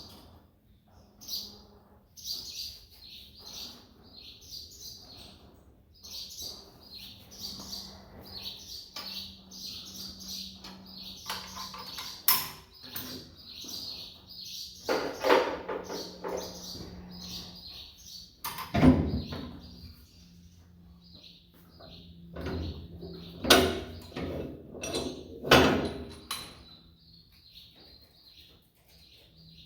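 Small birds chirping in quick, repeated high calls throughout. Several loud knocks and clatters break in, the strongest about two-thirds of the way in and again a few seconds later.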